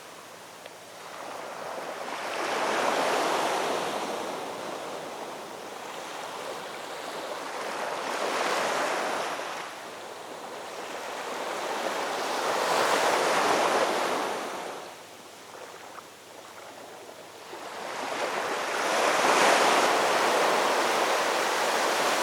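Ocean waves breaking as surf, four swells rising and falling about every five seconds, the last one the loudest.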